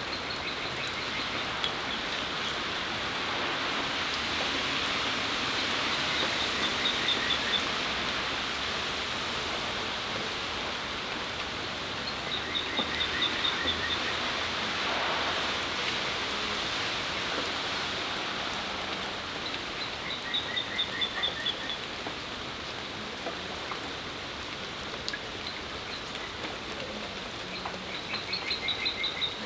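Steady rain falling on a patio. A bird sings a short, rapid, falling trill over it about every six to seven seconds, five times in all.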